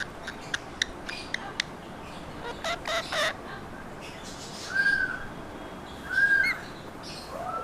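Pet parrot calling: a run of sharp clicks over the first second and a half, a short rasping burst about three seconds in, then two short arched whistled calls about a second and a half apart, the second the loudest.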